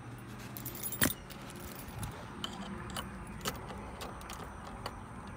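A bunch of keys jingling as they are handled, with scattered light clicks and one sharper click about a second in.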